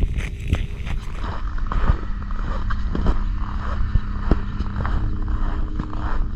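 A motor vehicle's engine running steadily, with frequent knocks and rattles over it.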